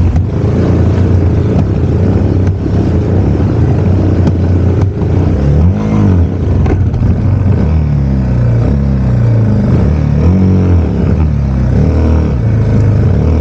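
Yamaha TW200's single-cylinder four-stroke engine revving up and down again and again as the bike works through deep mud.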